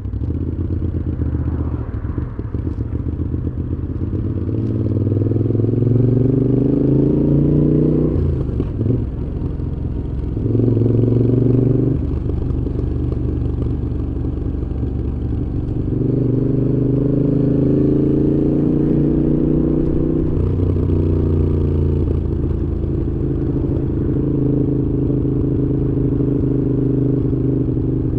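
Moto Guzzi V7's air-cooled transverse V-twin running through a Mistral aftermarket exhaust while riding. The engine note climbs under acceleration and drops suddenly at gear changes, about eight and twenty seconds in, between stretches of steady cruising.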